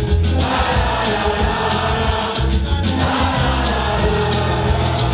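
Live band music with singing and regular drum hits: a bluegrass-style band playing a rock cover on stage.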